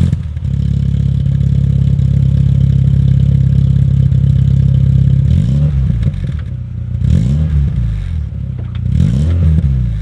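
VW Golf 3 GTI's 8-valve four-cylinder engine, the 115 PS version, heard from behind at the tailpipe. It idles steadily at first, and from about halfway on the throttle is blipped three times, the revs rising and falling each time.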